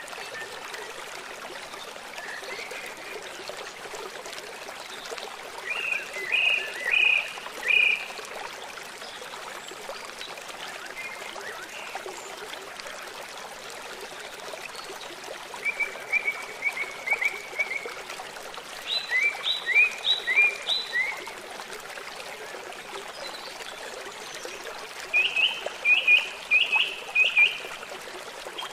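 A river or stream flowing steadily. Over it a bird sings several short phrases of quick repeated high notes, each lasting one to three seconds, with pauses between.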